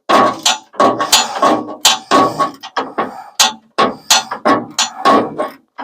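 A wrench clanking and clicking against metal as it turns the nuts on a truck's steel front bumper bolts in a cramped space: a run of sharp metallic strokes, about two or three a second, some ringing briefly.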